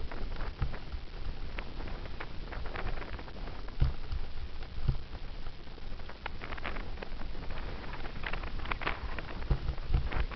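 Wind rumbling on a helmet camera's microphone as a bicycle coasts downhill, with irregular clicks and rattles from the bike and camera rolling over the road surface.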